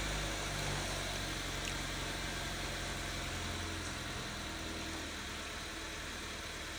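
Honda Mobilio's four-cylinder petrol engine idling steadily just after starting, its level easing down slightly as the idle settles during a throttle-body idle relearn after cleaning.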